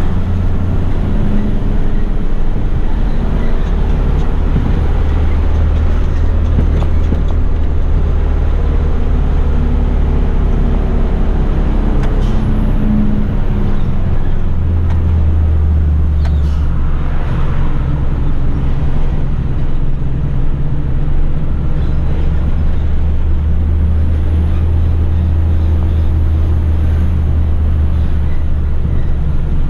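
Heavy rigid truck's engine running with road and tyre noise while driving along, a steady low drone throughout.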